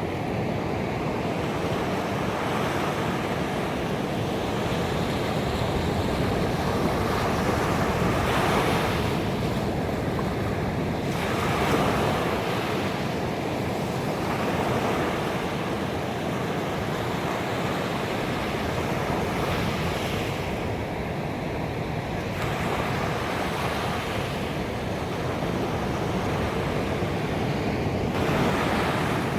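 Ocean waves breaking on a beach: a continuous wash of surf that swells and eases every few seconds as each wave comes in.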